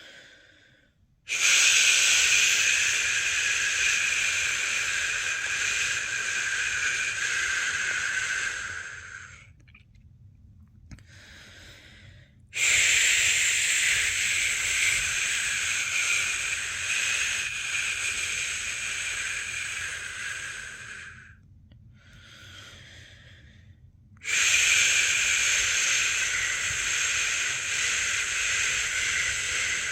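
A person shushing, a long held "shhh" made to lull a newborn to sleep, sounding three times for about eight seconds each, with a brief, softer breath between them.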